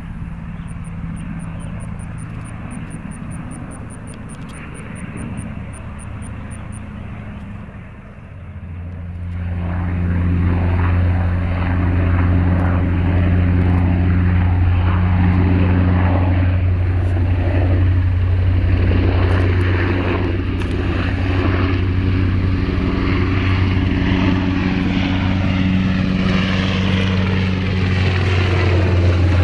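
Military aircraft engines running with a steady low drone, which grows much louder about eight seconds in and stays loud, with sweeping changes in pitch.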